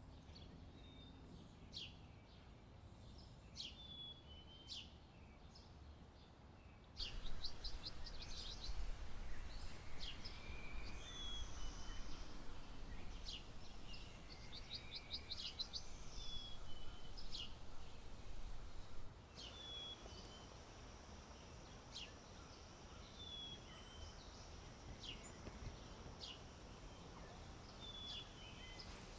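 Wild birds calling outdoors: repeated short chirps and rapid trills. From about a quarter of the way in until about two-thirds through, a louder low rumble of wind noise sits under the birds, starting and stopping abruptly. In the last third a steady high buzz runs under the chirps.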